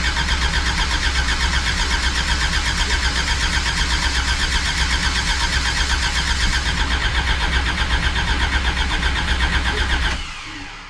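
Classic Mini's freshly built 1330 A-series four-cylinder engine cranking on the starter motor in a first-start attempt, a fast, even, pulsing churn that stops about ten seconds in.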